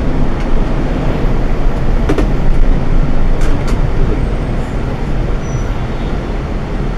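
Scania K410iB coach on the move, heard from on board: a steady mix of engine and road noise, with a few short rattles or knocks, one about two seconds in and two more about three and a half seconds in.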